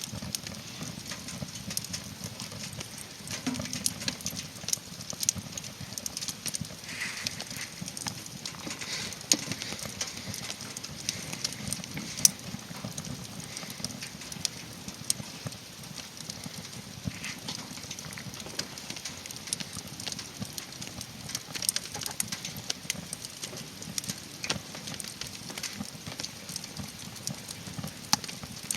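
Burning firewood crackling, with frequent irregular sharp snaps and pops.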